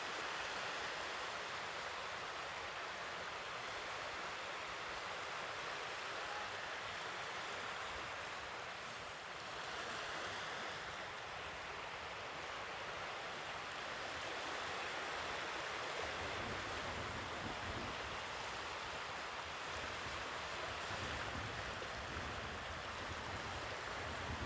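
Sea waves washing on the shore, a steady wash of surf that swells and eases gently. A low rumble joins about two-thirds of the way in.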